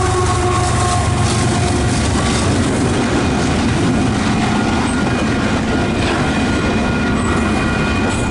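Freight train cars rolling steadily past, wheels clacking over the rail joints, with thin steady wheel-squeal tones in the second half. Wind buffets the microphone.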